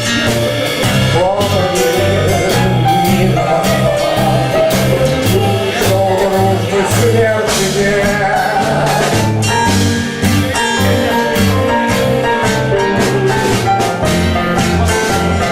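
Live band music: an instrumental passage of a song, with a steady bass line, drum kit keeping time and a melody line on top.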